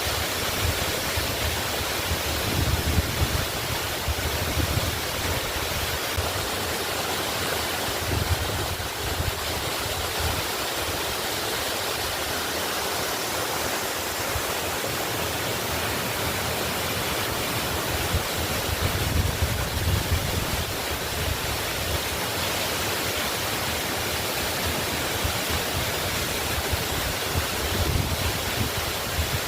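Waterfall rushing steadily, a continuous even roar of falling water with low rumbles swelling now and then.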